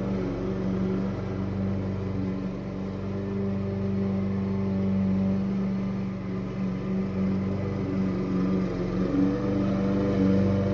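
Small petrol engine running steadily under load, its pitch and level wavering slightly.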